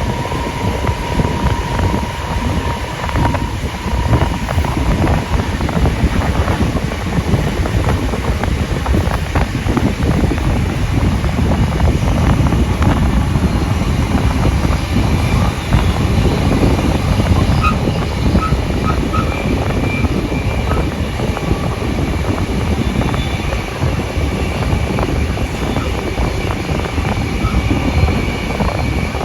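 Steady running noise of a passenger train hauled by steam locomotive 3526, heard from on board at speed. A faint steady tone sits over it for the first several seconds.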